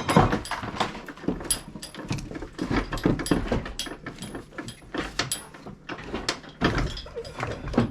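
Irregular metal clanks and knocks as the Honda Accord engine is pulled forward and shifted in the engine bay during removal, many sharp hits in quick succession.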